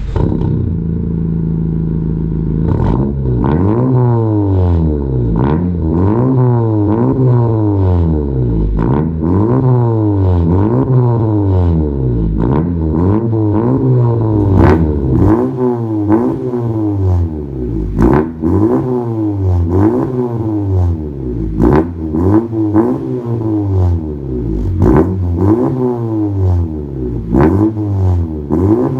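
Turbocharged Honda Civic RS engine through a full turboback exhaust with tri tips: a steady note for about three seconds, then revved over and over, the pitch climbing and falling back about once every second and a half, with occasional sharp cracks between revs.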